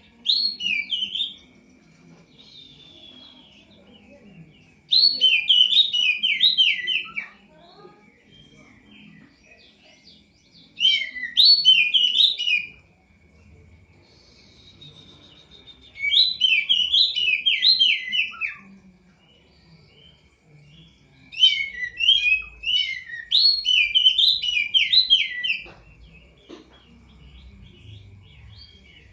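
Poci songbird singing in repeated bursts of rapid, chattering high notes, one phrase every four to six seconds, with quieter gaps between. A faint steady high whine runs underneath.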